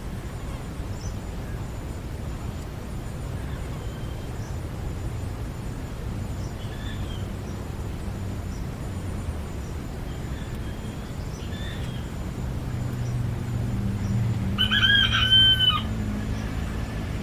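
A rooster crows once, loudly, about 15 seconds in, over a steady low hum, with a few faint bird chirps before it.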